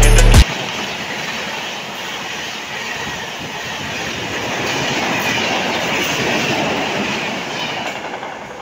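Music cuts off about half a second in. An Indian Railways passenger train then runs past at speed, its coach wheels rumbling and rushing along the rails. The noise swells to a peak and then fades as the last coaches go by.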